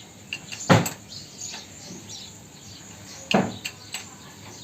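Two loud knocks about two and a half seconds apart, with a few lighter clicks between them and faint bird chirps behind.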